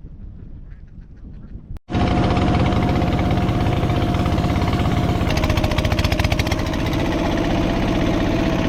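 Dense quacking of a large flock of domestic ducks over a steadily running engine. It starts abruptly about two seconds in, after a quieter stretch.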